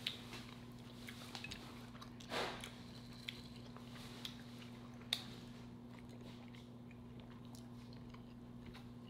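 Quiet chewing of a raw burrito bowl of beans, cauliflower rice and vegetables, with a few faint clicks and a soft swish, over a steady low electrical hum.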